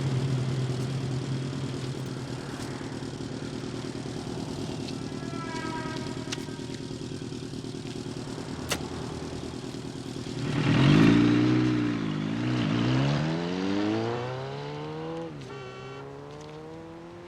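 Motorcycle engine running steadily, then revving up and down several times from about ten seconds in, its pitch swooping and rising before fading away near the end.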